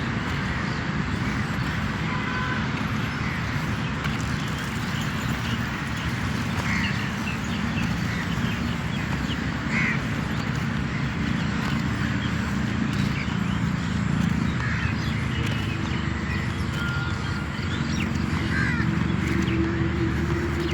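Steady outdoor background noise with scattered short bird calls. A steady low hum comes in about three-quarters of the way through.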